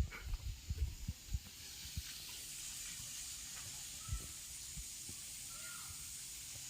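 Water spraying steadily from a hose, a high hiss that builds up from about two seconds in, after a few light knocks at the start.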